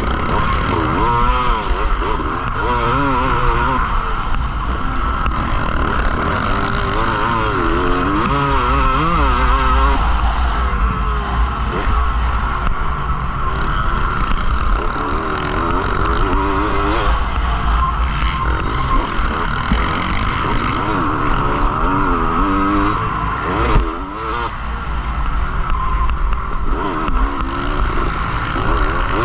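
Motocross dirt bikes running on the track, their engines rising and falling in pitch as the riders work the throttle, over a steady low rumble.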